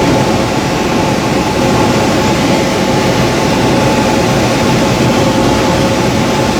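Steady rushing airflow inside a motor glider's cockpit while it glides with the engine off, with a faint steady hum under it.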